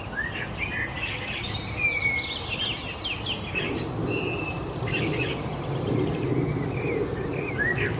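Several small birds chirping and singing in quick overlapping calls and short trills, over a steady low noise bed that grows a little stronger about halfway through.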